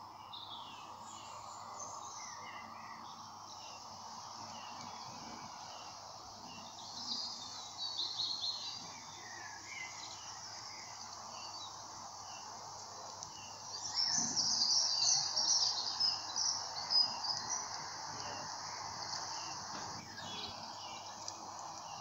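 Songbirds chirping and singing over a steady outdoor background hiss, with a louder, busier run of high chirps about two thirds of the way through.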